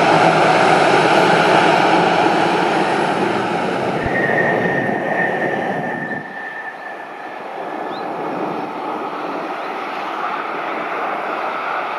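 Airliner's engines running loud as it passes, then dropping away about halfway through to a lower steady noise. A high steady whine rises out of the noise for a few seconds near the middle.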